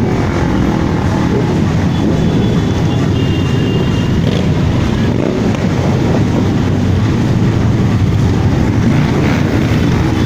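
Many motorcycle engines running as a stream of motorbikes rides past, with revs rising and falling near the start and again near the end.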